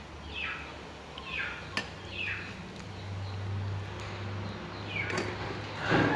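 A bird chirping over and over: short notes sliding down in pitch, about one a second, with a low steady hum underneath and a couple of faint clicks.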